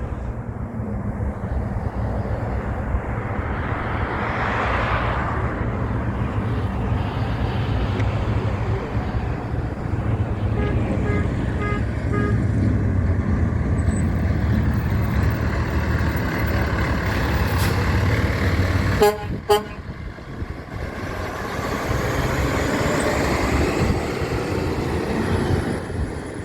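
Heavy trucks running past with a steady low diesel engine rumble. A horn sounds in a few short toots about eleven seconds in, and there are sharp clicks a little before the twenty-second mark.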